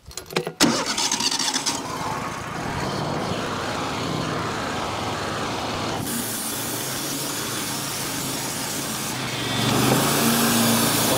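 Wood-Mizer portable sawmill's engine cranked and catching about half a second in, then running steadily. About six seconds in the sound turns brighter, and it gets louder near the end.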